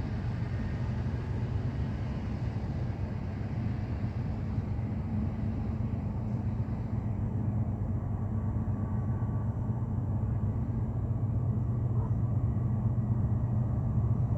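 CN freight train running past with a steady low diesel rumble. The higher hiss dies away about halfway through while the rumble grows slightly louder.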